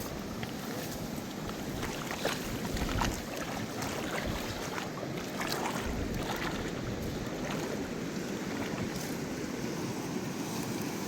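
Mountain river rushing steadily, with many small splashes and droplet ticks through the flow.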